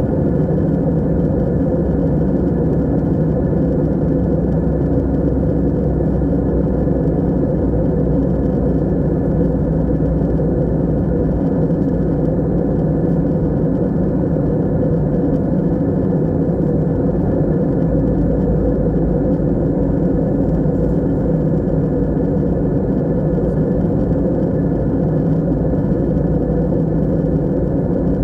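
Steady, unbroken low drone of a passenger airplane in flight, heard from inside the cabin: engine and airflow noise with a constant hum and no changes.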